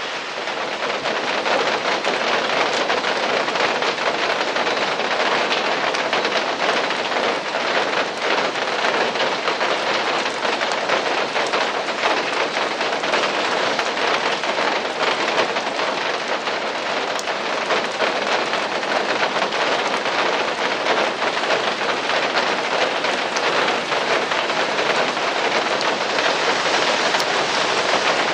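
Steady rain falling, a dense even hiss full of small drop ticks, with no change in strength.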